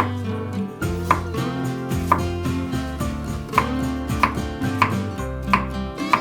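Knife chopping on a cutting board in slow, unevenly spaced strokes, about eight of them, each a sharp knock. Background music plays underneath.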